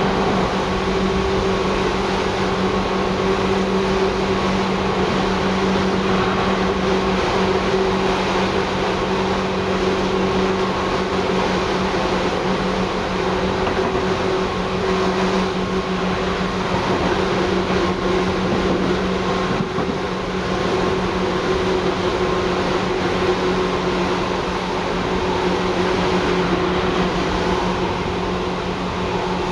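Seibu 2000 series electric train running, heard from inside the car: a steady rumble of wheels on rail with a steady low hum.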